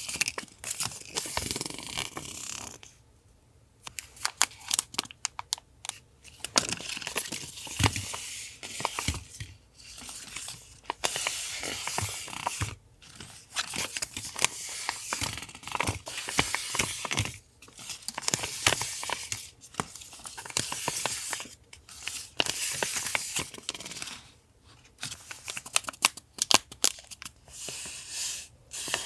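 Paper being handled for a collage: sheets and stickers rustling, tearing and being snipped, with many small taps and clicks, coming in busy stretches broken by short pauses.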